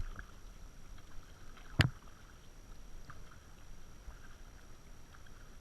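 Kayak out on the water with faint scattered drips and splashes, and a single sharp knock on the boat about two seconds in.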